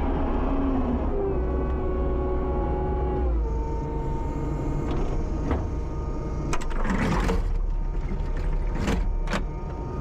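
Kubota 75-2 skid steer's diesel engine running steadily, with a whine that shifts in pitch and drops about three seconds in. Several sharp metallic clanks and a brief scraping rasp follow in the second half.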